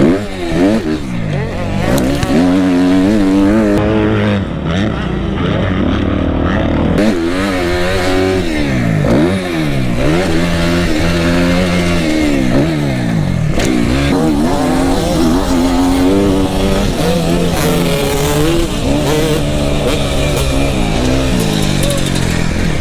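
250cc four-stroke dirt bike engine being ridden hard, its pitch repeatedly climbing under throttle and dropping off every second or two as the rider accelerates, shifts and backs off.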